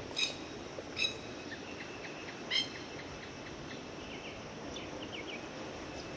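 Masked lapwings (plovers) giving short, sharp alarm calls: three clear calls in the first three seconds, then fainter ones. The alarm is a warning that they have chicks nearby.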